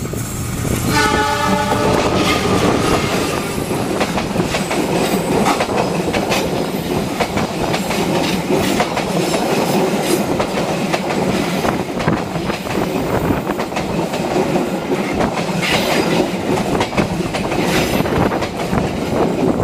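Diesel locomotive horn sounding once for about a second, then a passenger train passing close by: a loud continuous rumble of the locomotive and coaches, with the wheels clicking over the rail joints.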